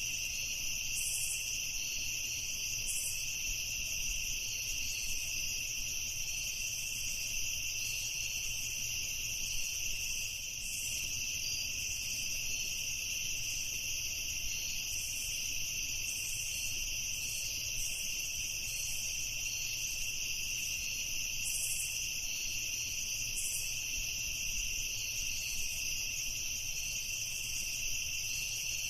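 A chorus of crickets trilling steadily, with a higher, pulsing chirp layered over the even drone.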